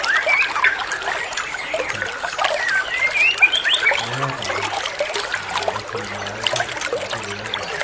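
Songbirds chirping busily in quick, short rising and falling notes over steadily trickling water.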